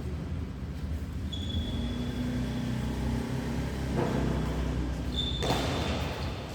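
Badminton play on an indoor court over a steady low rumble: sharp racket strikes about four and five and a half seconds in, with short high squeaks.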